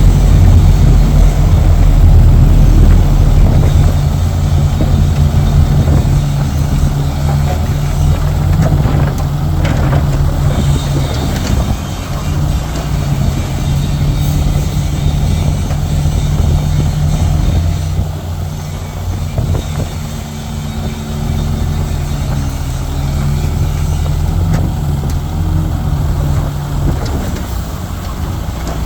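Heavy diesel engine of earthmoving machinery running, a deep steady drone that eases off a few seconds in and drops again a little past halfway.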